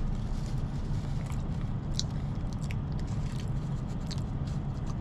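A person eating mashed potatoes: chewing with scattered small clicks and soft mouth sounds, over a steady low hum.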